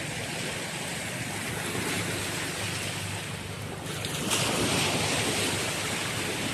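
Sea waves washing onto the shore, with wind on the microphone; the surf swells louder about four seconds in.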